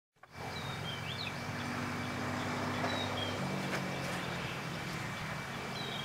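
Outdoor pond-side ambience: a few short, high bird chirps over a steady hiss and a low hum that shifts in pitch about halfway through.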